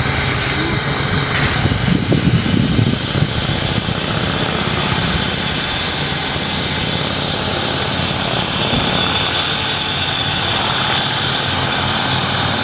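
C57 steam locomotive standing in steam, giving off a steady hiss and mechanical running noise, with a thin unbroken high whine over it.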